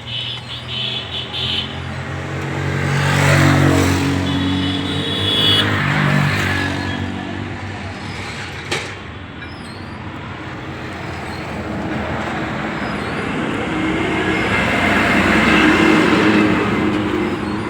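Heavy vehicle engines running, swelling louder and fading three times: a few seconds in, again soon after, and near the end. A single sharp click comes about halfway through.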